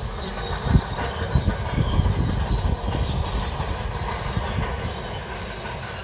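Shantui crawler bulldozer working, its steel tracks clanking and squealing over the diesel engine's running, with a sharp knock about three-quarters of a second in.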